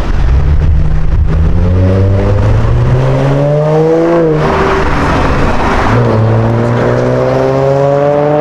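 A performance car's engine accelerating hard. Its pitch climbs for about four seconds, drops at an upshift about halfway through, then climbs again in the next gear.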